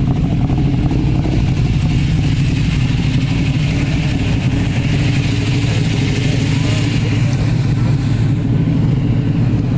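Loud engine of a 1968 street-race car idling steadily as the car rolls slowly past close by, a deep, even rumble with no change in pitch.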